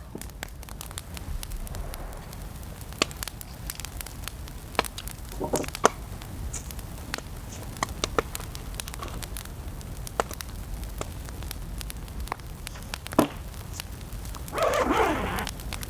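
Campfire crackling with scattered sharp pops, over a steady low rumble of wind. A brief louder sound comes about a second before the end.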